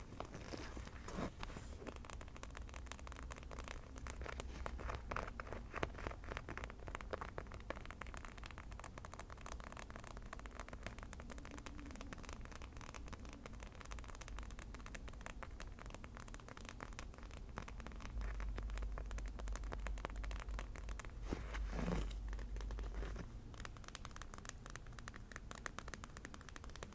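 Fast, rapid tapping and scratching on an object close to the microphone, a dense run of small clicks throughout.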